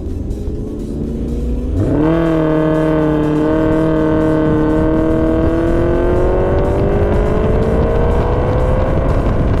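Sports car engine through a straight-through F1-style exhaust, accelerating: about two seconds in the note jumps up sharply, then climbs slowly and steadily in pitch as the car pulls hard in one gear.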